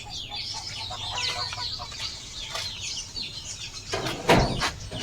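Outdoor birds chirping and twittering, many short quick notes, with a brief loud rustle a little after four seconds in.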